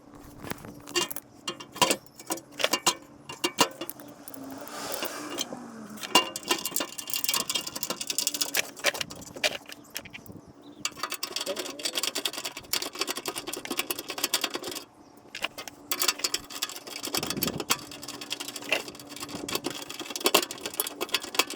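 A 3/8-inch ratchet clicking in quick runs as the bolts of a steel underbody plate are run in and tightened, with occasional metal clinks and knocks from the plate and tools.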